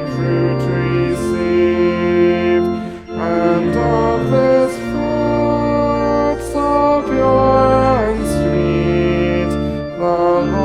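A congregation singing a slow hymn with organ accompaniment, in long held chords that change every second or two.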